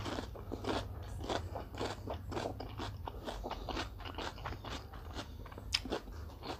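Close-miked chewing of raw bitter melon: crisp, irregular crunches, two or three a second.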